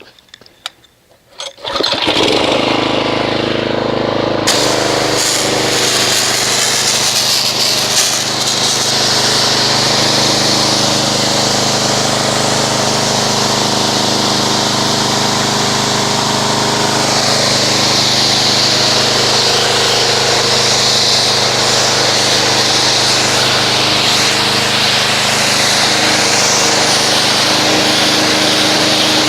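Pressure washer starting up about two seconds in and running steadily. From about four and a half seconds in, its water spray hisses against the car as the foam is rinsed off.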